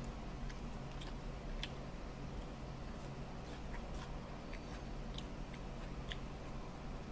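Eating by hand: short, sharp mouth clicks and soft chewing sounds come at irregular moments over a steady low hum.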